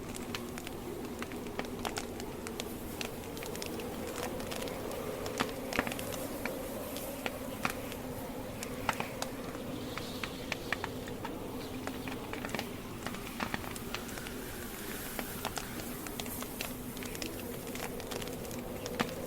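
Wood campfire crackling, with irregular sharp snaps and pops from the burning logs over a steady low buzzing hum.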